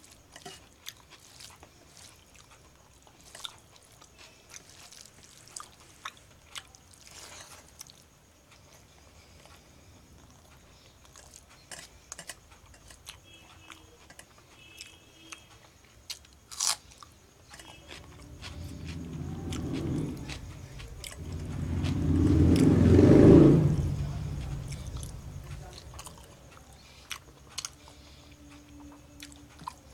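A person eating rice and curry by hand: wet chewing and mouth smacks with many sharp little clicks. About two-thirds of the way in, a low rumble swells up over several seconds, is the loudest sound, and fades away.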